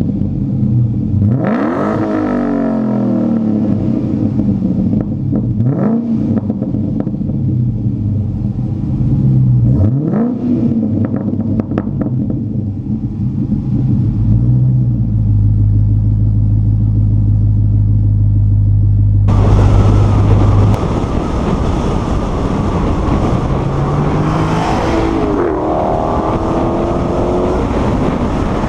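Dodge Challenger SRT8's HEMI V8 with the rear muffler deleted, idling and revved in short throttle blips, then held at a steady higher rev for several seconds. About two-thirds of the way through the sound changes abruptly to the car under way, the engine note rising as it accelerates over road and wind noise.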